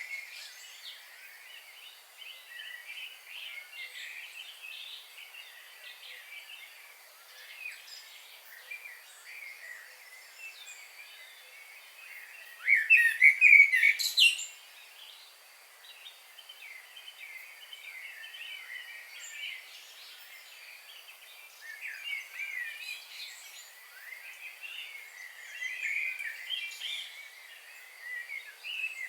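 Wild birds chirping and singing in short, scattered phrases, with a loud burst of calls about halfway through.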